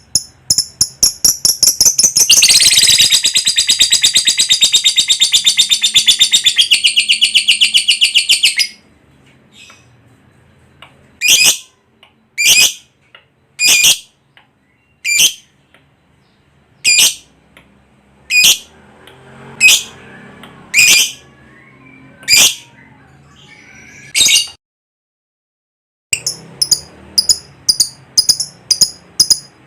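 Lovebird calling: quick repeated chirps run into a long, rapid chattering trill of about six seconds, the drawn-out 'ngekek'. Then come single sharp calls about a second apart, a short dead gap, and fast chirping again near the end.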